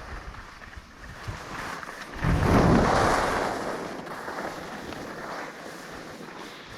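Rushing noise of skiing downhill: wind on the microphone and skis sliding over snow. It swells sharply about two seconds in, then slowly fades.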